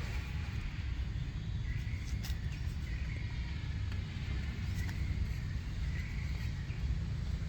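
Outdoor background: a steady low rumble with a few faint, short, high chirps scattered through it.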